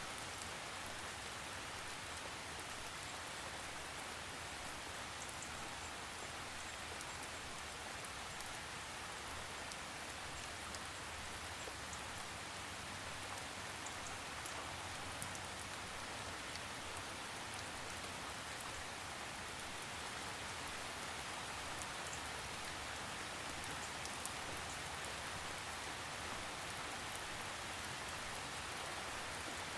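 Steady rain falling, an even hiss with scattered individual drop ticks, without thunder.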